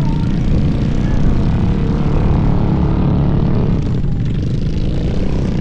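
Small engine running steadily with a droning hum.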